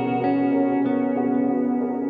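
Instrumental break of an indie-folk song: a few plucked guitar notes picked over steadily ringing held notes, with an echo effect.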